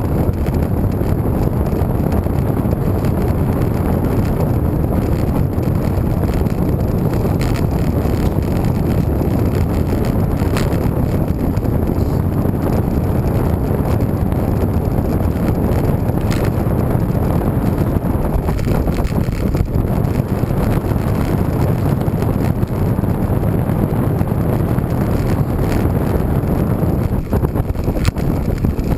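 Wind buffeting the microphone of a camera on a moving road bike, a steady low rumble with a few faint ticks.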